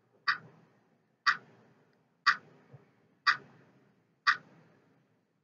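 Ticking clock sound effect, a sharp tick once a second, five times, timing the pause for a quiz answer.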